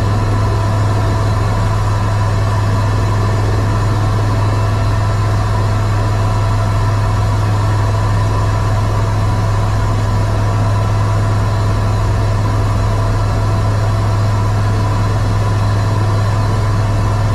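Eurocopter EC130 helicopter hovering: a steady, loud drone of its turbine engine and rotors, with a constant low hum and a steady higher whine that do not change.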